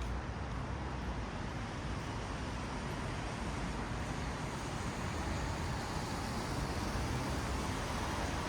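Traffic on a wet city road: tyres hissing on wet asphalt over a low engine rumble, a steady wash of noise that grows slightly louder toward the end.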